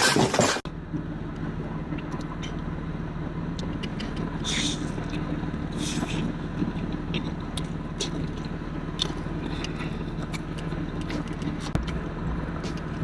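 Steady low hum of an idling car engine, with scattered faint clicks and a brief loud rustle at the very start.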